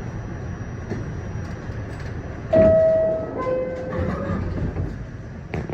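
R68 subway car standing or running with a steady rumble, then the two-note descending door chime, a high note followed by a lower one, sounding about halfway through as a signal that the doors are about to close. A couple of sharp knocks follow near the end.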